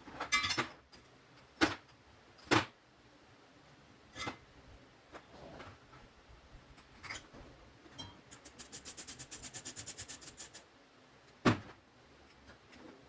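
Metal parts and hand tools handled while working on an air-suspension compressor: a few sharp clicks and knocks spaced seconds apart, and in the middle about two seconds of fast, even clicking.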